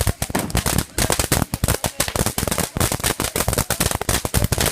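A string of firecrackers going off: rapid, irregular sharp pops, many a second, without a break.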